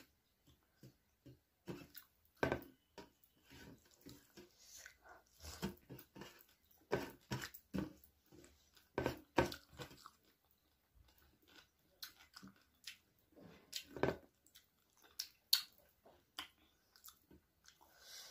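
Close-miked chewing of a mouthful of rice and meat eaten by hand, with irregular wet clicks and smacks, a few of them louder.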